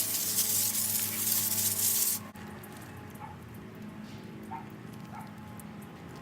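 Garden hose spraying water onto an aphid-infested brassica plant: a loud, steady hiss that cuts off suddenly about two seconds in, leaving a few faint ticks.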